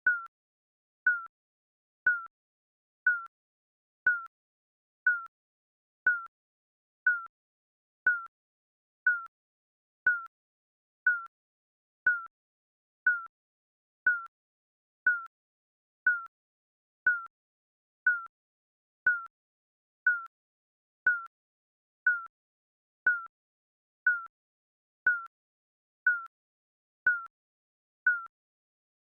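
Digital countdown timer beep, a short high electronic tone sounding once every second with silence in between.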